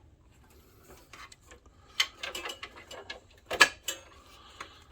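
Sharp plastic clicks and small rattles as a wire connector is worked loose from the projector's lamp ballast by pressing its latch tab. The loudest click comes about three and a half seconds in.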